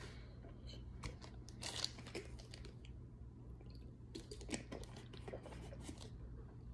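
A person chewing crunchy chunks of a powdery brick mix: a scatter of faint, irregular crunches.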